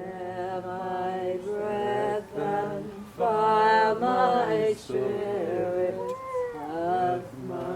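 Voices singing or chanting long held notes that slide between pitches, with several pitches sounding together.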